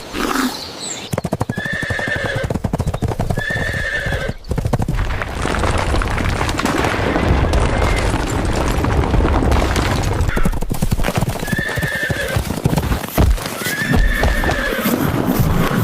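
Cartoon sound effects: a fast, continuous clattering with four short arched animal calls, two near the start and two near the end, over music and a low rumble.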